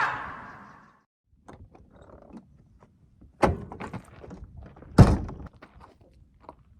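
A noisy sound fading out over the first second, then two sharp thunks about a second and a half apart, the second the louder, among lighter knocks and handling noises.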